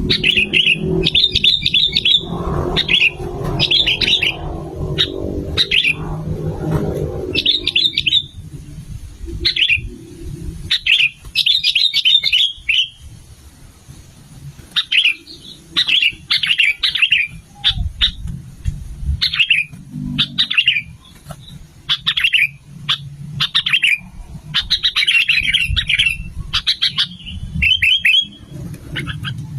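Sooty-headed bulbuls (kutilang) singing: short, bubbly, chirping phrases repeated every second or so, with a low background rumble in the first several seconds.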